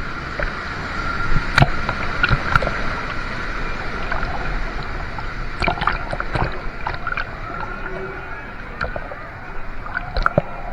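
Water splashing and sloshing steadily, with sharp splashes every second or so.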